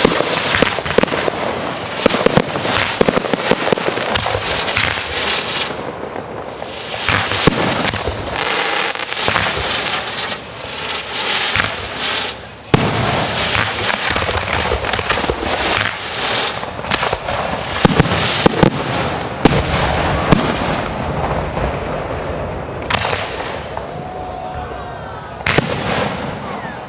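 Fireworks display going off in a dense run of bangs and crackles, one after another, with an especially sharp bang about halfway through.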